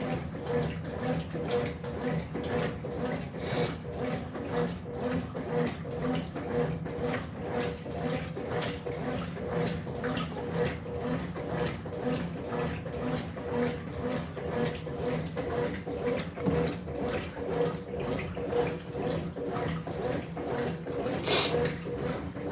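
Electrolux LF75 top-loading washing machine agitating a load in water: the motor hums steadily under rhythmic sloshing that surges about twice a second.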